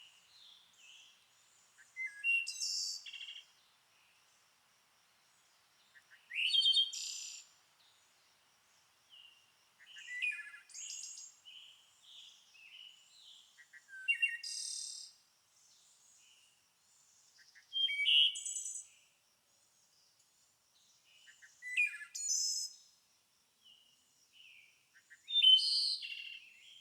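A songbird singing short, loud phrases about every four seconds, with quieter chirps from other birds in between.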